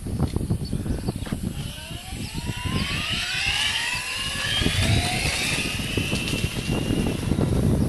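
Turnigy RC brushless electric motor on a converted Hercules Sachs bike, driven by a Jeti controller, whining and rising steadily in pitch as the bike speeds up, from about a second and a half in until near the end. Under it runs a constant low rumble.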